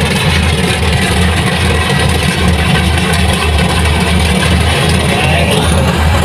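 Engine of heavy farm machinery running steadily, with a low, even throb.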